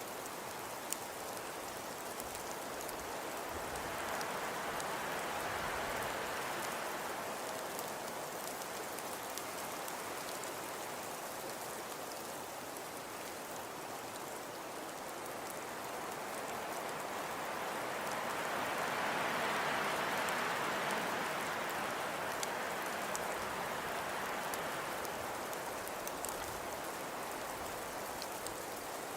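Snowstorm ambience: a steady hiss of wind-driven snow with faint scattered ticks, swelling twice, most strongly about two-thirds of the way through.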